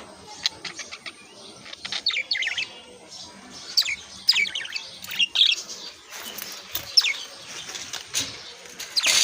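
Small birds chirping in short, quick calls, many falling in pitch, with a busier burst near the end, mixed with brief clicks.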